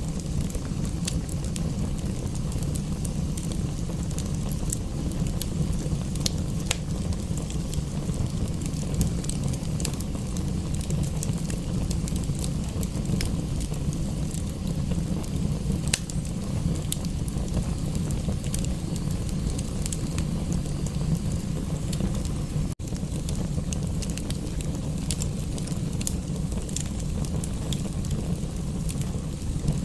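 Wood fire crackling in a fireplace: frequent sharp pops and snaps over a steady low rumble. The sound cuts out for an instant about three-quarters of the way through.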